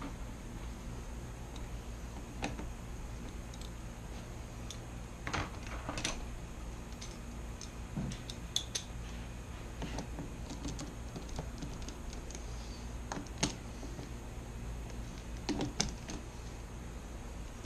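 Scattered light metallic clicks and clinks of hand tools and small parts being handled, some single and some in quick little clusters, over a steady low hum.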